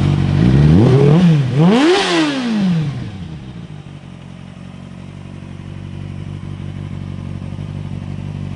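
2007 Kawasaki ZX-6R Ninja's inline four-cylinder engine idling, revved up twice in quick succession in the first few seconds, then dropping back to a steady idle.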